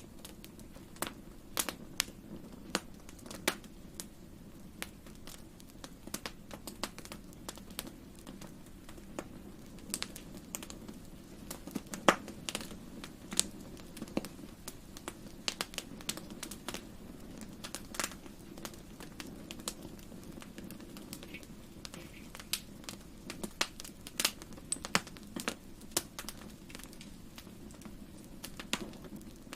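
Wood fire burning in a fireplace: irregular sharp crackles and pops, some louder than others, over a steady low rumble of the flames.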